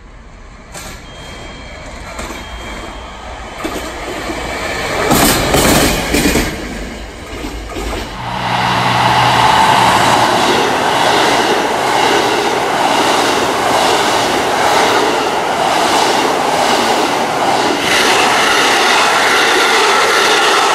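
JR Central KiHa 85 series diesel multiple unit running through the station at speed. The sound builds as it approaches, and a low engine hum is heard as the front passes about eight seconds in. A loud, steady passing noise follows, with wheels clattering over the rail joints in an even run of beats.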